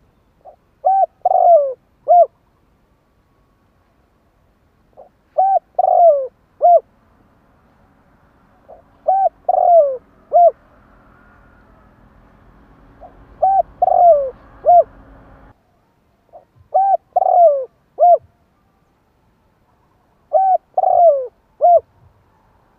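Spotted dove cooing, six phrases spaced about every four seconds. Each phrase is a short run of coos with one longer, falling note in the middle.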